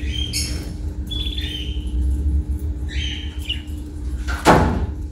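Budgerigars chirping, several short chirps in quick groups, over a steady low hum. A sharp knock sounds about four and a half seconds in.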